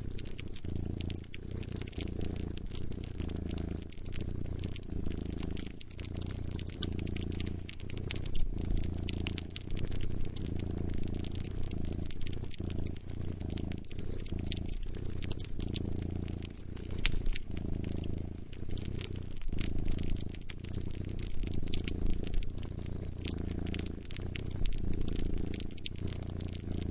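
A cat purring close by in a low, even rumble that swells and eases about once a second with its breathing, over a wood fire crackling with scattered sharp pops.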